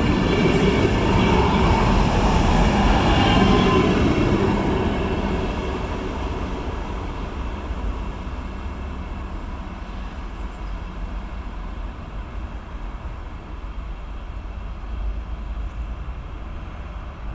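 A loud rumble with a few faint steady tones above it fades away between about four and eight seconds in, leaving a steady low rumble.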